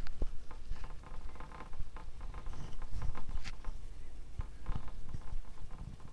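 Paintbrush working acrylic paint onto a canvas: irregular soft taps and short scratchy strokes.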